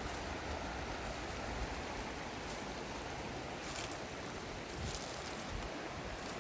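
Steady outdoor background noise with wind rumbling on the microphone, and brief rustling about four and five seconds in.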